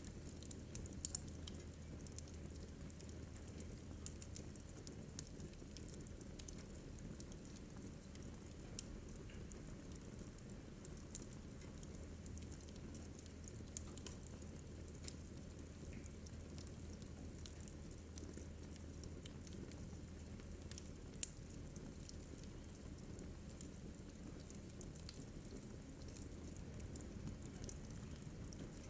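Wood fire crackling in a fireplace: irregular sharp pops and snaps over a low steady rumble and hiss, with a few louder pops about a second in and near twenty-one seconds in.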